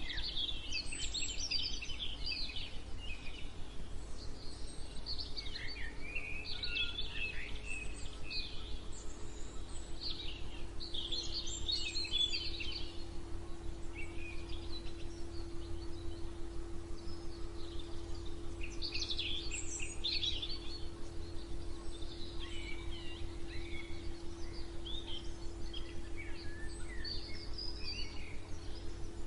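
Several songbirds singing and chirping in scattered bursts, with a few quieter gaps, over a steady low drone. Near the end comes a quick run of repeated short notes.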